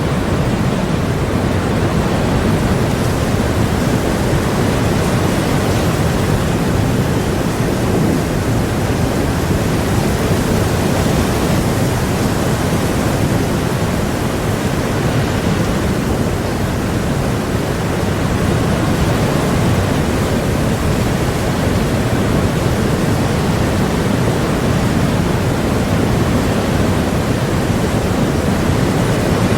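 Sea storm ambience played as a white-noise track: a steady, deep rushing noise of wind and surf with no breaks or distinct events.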